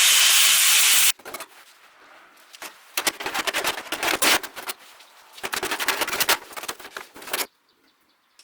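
Arc welding: a loud steady hiss that cuts off suddenly about a second in, then two bursts of dense crackling and popping, each one to two seconds long, as short welds are struck and laid.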